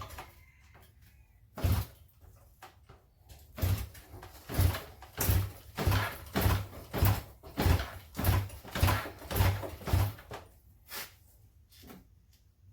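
Repeated thumps of the kick-starter being worked on a 1973 Honda CB350 Four: two single strokes, then a quick run of about ten, nearly two a second. The engine does not fire: on the choke and a gravity-fed fuel line, it is not getting a spark.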